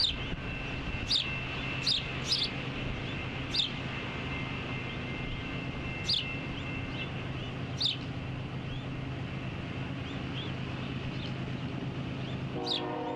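A bird's short, sharp downward chirps repeat every second or so over a steady low hum. Near the end a freight locomotive's multi-note air horn starts sounding a held chord.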